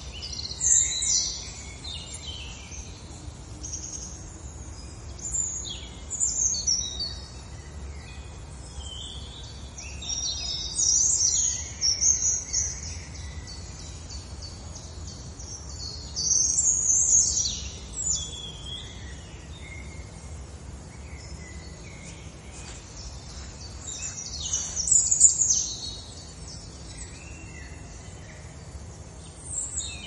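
Songbirds singing in clusters of high chirping phrases every few seconds, over a steady low background rumble.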